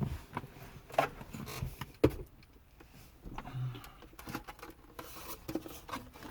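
Plastic dash trim of a pickup's interior being handled and tilted into place: scattered clicks, light rattles and knocks, the sharpest about two seconds in.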